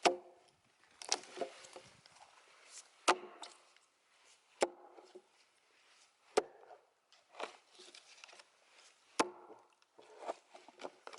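Heavy blows struck into a partly split oak log, about six sharp strikes spaced a second or two apart, with a few lighter knocks between them, as the split is driven through.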